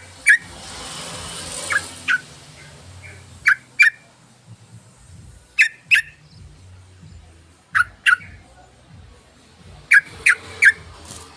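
Yellow-vented bulbul (trucukan) giving short, sharp chirps, mostly in pairs about every two seconds, with a quick run of three near the end.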